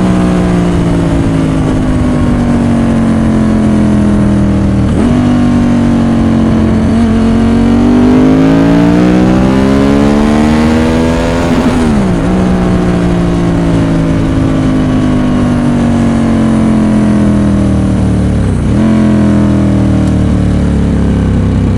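Ducati 916's 90-degree V-twin engine with Arrow exhausts, heard from the bike while riding. The engine note mostly falls as the bike slows, with sharp jumps in pitch about five seconds in and again near the end. In between it climbs for several seconds under acceleration, then drops suddenly about twelve seconds in.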